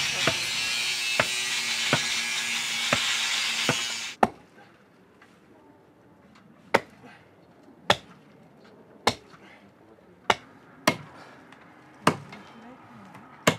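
Hatchet chopping into wood: a series of sharp single strikes about once a second. For the first four seconds the strikes sit under a loud steady hiss that cuts off suddenly.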